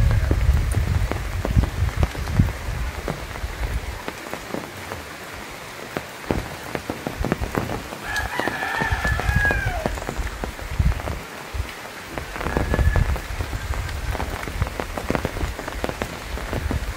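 Rain falling steadily on foliage and metal roofs, with many individual drops ticking and surges of low rumble. A rooster crows once about eight seconds in.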